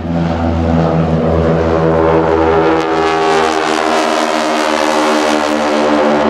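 Edge 540 aerobatic plane's six-cylinder Lycoming engine and propeller at high power as the plane passes. It swells in quickly at the start, then its pitch drops slightly as it goes by.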